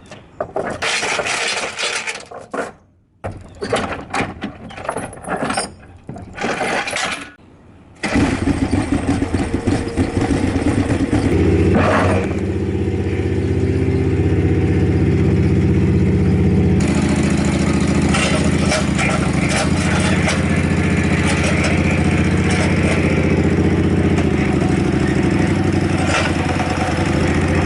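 Irregular clattering and scraping for several seconds, then an engine starts about eight seconds in and runs steadily.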